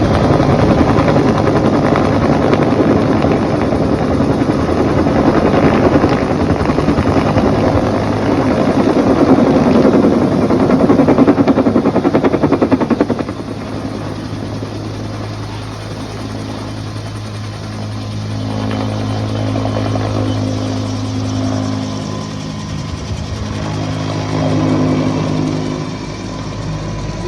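Loud helicopter engine and rotor noise that starts abruptly, running steadily for about thirteen seconds before dropping to a lower, steady hum that carries on.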